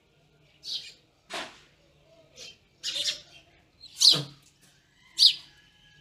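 Birds calling: a string of about six short, sharp chirps, with the loudest ones about four and five seconds in.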